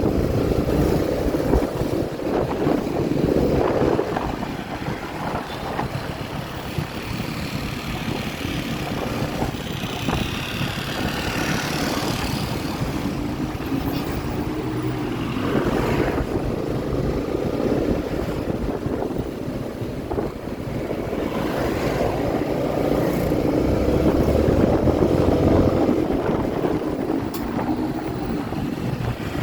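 Motorcycle engine running on the road, its pitch rising and falling as the speed changes, with wind noise buffeting the microphone.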